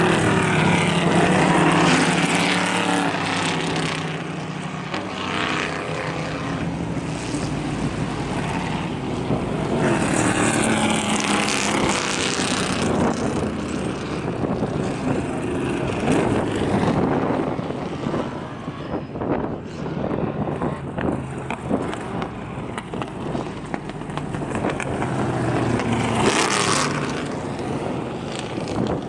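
AC Cobra race cars' Ford V8 engines running as the cars drive past one after another in a line. The loudest passes come at the start, about ten seconds in and near the end.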